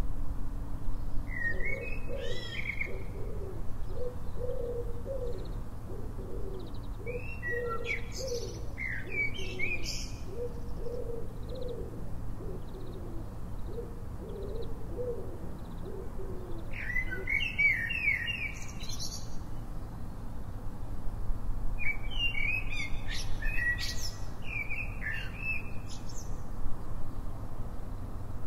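A songbird singing four short warbled phrases several seconds apart, with a pigeon cooing over and over beneath it through the first half. A low steady hum runs underneath.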